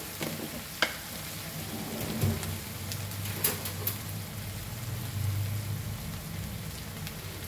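Onions and tomatoes frying in hot oil and ghee in a wok: a steady sizzle with a few sharp clicks and a low hum underneath.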